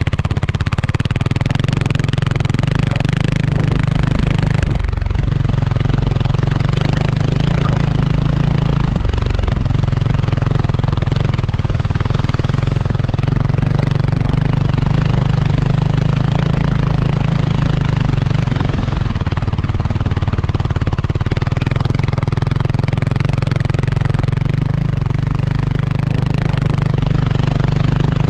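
Kawasaki KLX300R dirt bike's single-cylinder four-stroke engine running steadily under way. The engine note eases off briefly about 5 and 9 seconds in.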